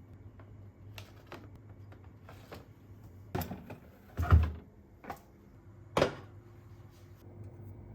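Objects handled and set down: a few separate knocks and light thumps, the heaviest about four seconds in, with small clicks between, over a low steady hum.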